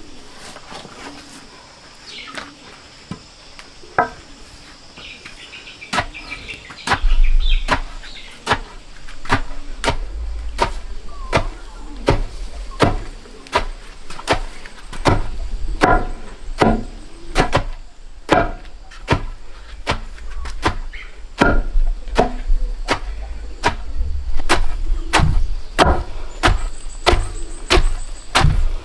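Repeated sharp chopping strokes, a few scattered at first and then a steady run of about two a second from about six seconds in, with faint steady insect buzzing underneath.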